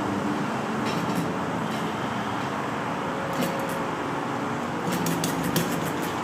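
Enjomor 6cc hit-and-miss model gasoline engine being turned over in a hard start, not yet running steadily, which the owner takes for a flooded engine. A few sharp clicks come about a second in, again past the middle, and in a quick cluster near the end.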